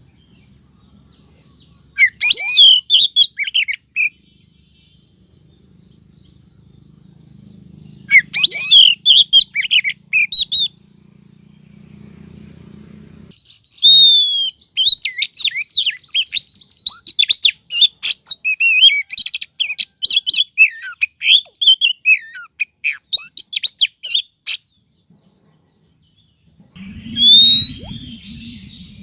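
Female Oriental magpie-robin (kacer) calls of the kind played as a lure for males: bursts of quick whistled and chirping notes, two short bursts, then a long run of varied phrases about halfway through, and another burst near the end.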